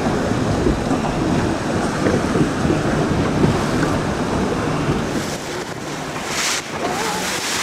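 Tour boat's engine running with water rushing past the hull and wind buffeting the microphone, the wind gusting harder a little after five seconds in.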